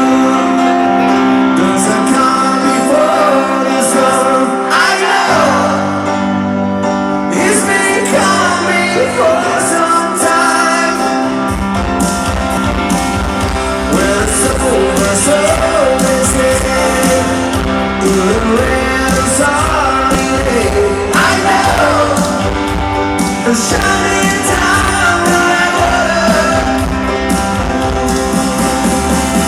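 Live rock band playing with a lead singer, guitar to the fore. Bass and drums come in about eleven seconds in.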